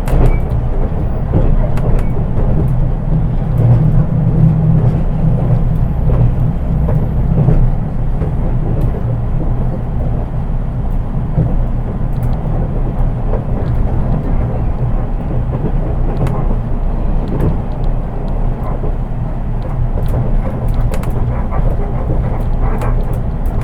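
Interior running noise of a JR East 183 series DC electric train, heard from the unpowered KuHa cab-trailer car: a steady low rumble of wheels on rail with scattered light clicks and rattles. The rumble swells for a few seconds near the start.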